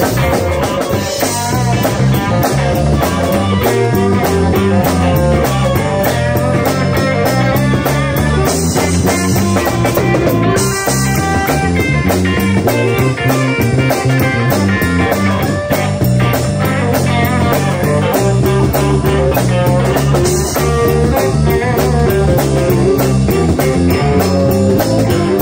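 Live blues band playing an instrumental passage: electric guitar over bass and a drum kit keeping a steady beat.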